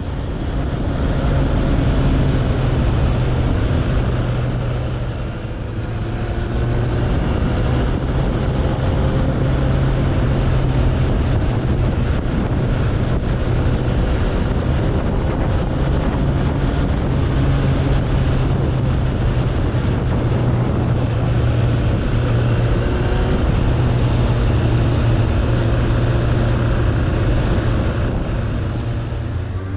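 Suzuki Bandit 1200's inline-four engine running steadily at cruising speed, with wind rushing over the microphone. The engine eases off briefly about five seconds in and again near the end.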